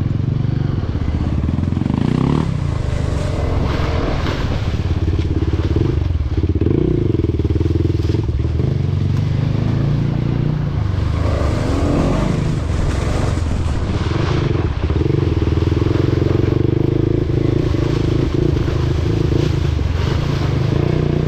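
Motorcycle engine running while riding, its note rising and falling with changes of throttle.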